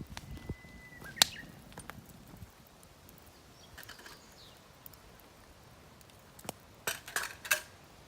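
Campfire of damp firewood in a mesh fire stand crackling, with scattered sharp pops. One loud snap comes about a second in, and a quick cluster of pops comes near the end.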